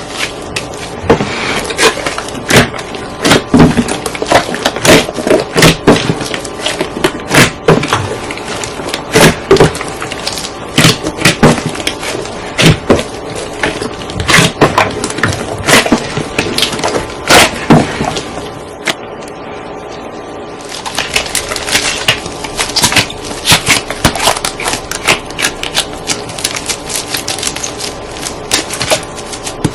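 Hands kneading and squeezing a large batch of slime, giving a dense run of sticky pops and crackles as trapped air bursts. There is a brief lull about two-thirds of the way through before the popping starts again.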